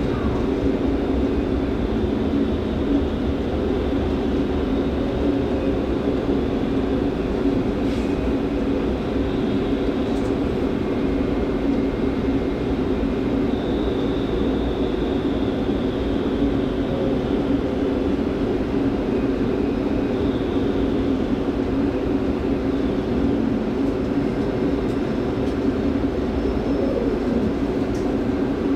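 Steady hum and drone inside the passenger car of an electric S-Bahn train as it draws into the station and stands at the platform, with a few faint clicks.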